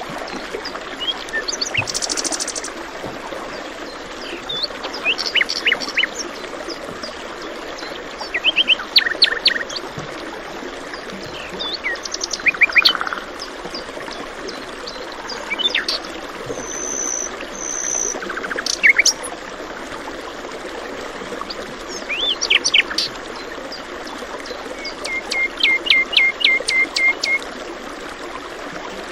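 Several songbirds singing and calling over the steady rush of flowing water, in short phrases of quick chirps and trills, with a run of repeated notes near the end.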